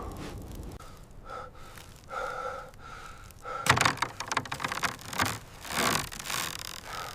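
A few short, thin, pitched cries, then a run of loud, labored gasping and snorting breaths.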